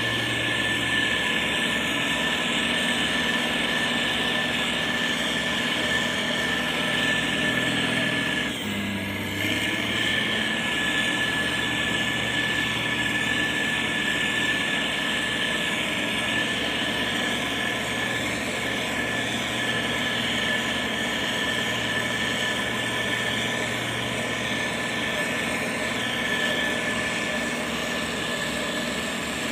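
Heavy construction machine's diesel engine running steadily, with a constant high-pitched whine over the engine hum; the sound briefly dips and shifts about eight seconds in.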